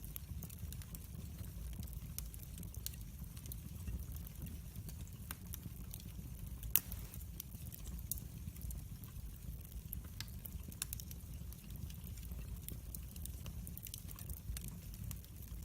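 Wood fire burning in a fireplace: a steady low rumble of the flames with frequent sharp crackles and pops of the burning logs, one louder snap about halfway through.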